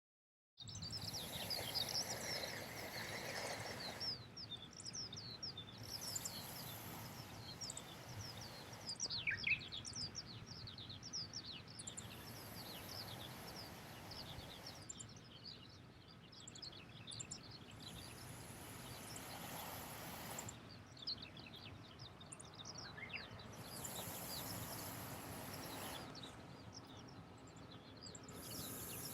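Wild birds chirping and calling, many short falling chirps over outdoor background noise, with a very high hiss that switches on and off every couple of seconds.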